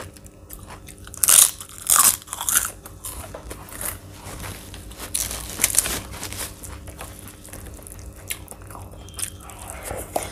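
Close-miked crunchy chewing of food, with loud crunches about one and a half to two and a half seconds in and again around five to six seconds in, and softer crackles of chewing between.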